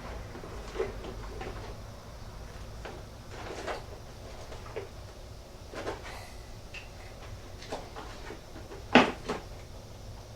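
Scattered light knocks and clicks of parts and tools being handled while working on a motorcycle, the loudest a sharp double knock about nine seconds in, over a low steady hum.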